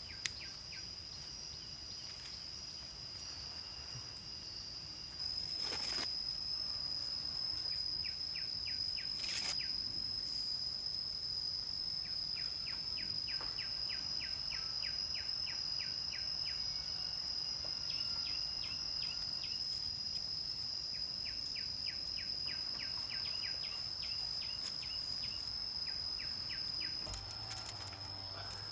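Insects droning steadily at a high pitch, louder from about five seconds in, with runs of quick ticking chirps, about four or five a second, from other insects. Two sharp knocks come about six and nine seconds in.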